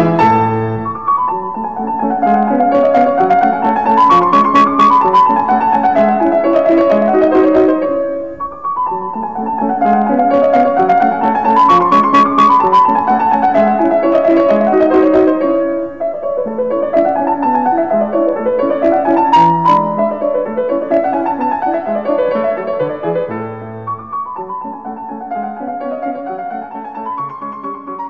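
Background piano music: phrases of notes rising and falling, repeating about every eight seconds, fading away near the end.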